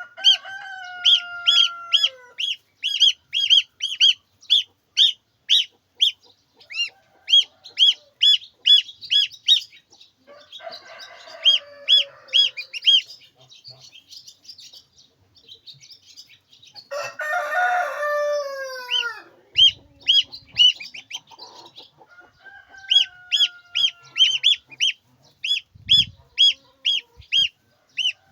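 Chickens: a rapid, steady run of high peeps, two or three a second, with a rooster crowing several times over it, loudest about two-thirds of the way through.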